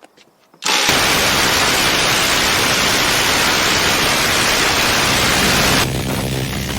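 M134 minigun firing one continuous burst, so fast that the shots merge into a solid, loud buzz. It starts suddenly a little under a second in and runs for about five seconds, then drops in level to a lower, rougher sound near the end.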